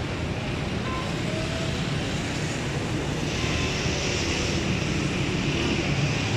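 Steady street traffic noise: vehicle engines rumbling, with a broad hiss that swells about three seconds in as something passes close by.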